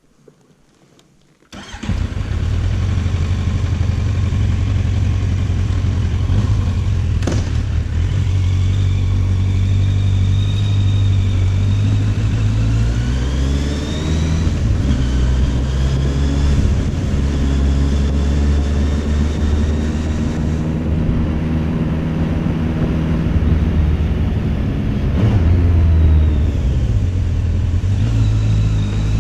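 Kawasaki Z800's inline-four engine through its stock silencer. It comes in suddenly about a second and a half in, then runs with the revs rising and falling again and again.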